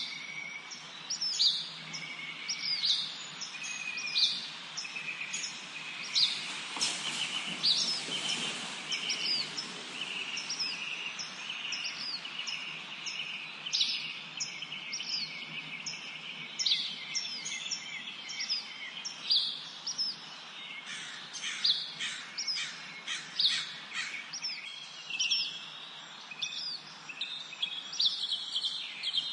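Several songbirds chirping and singing together, a rapid, overlapping run of short high chirps over a faint steady hiss of background noise.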